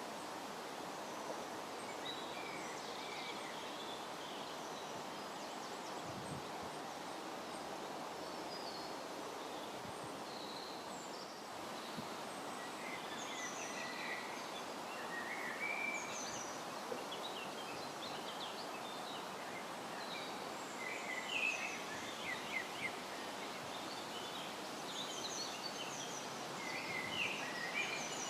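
Steady wind noise rushing through foliage, with small birds chirping on and off, the chirps growing more frequent in the second half.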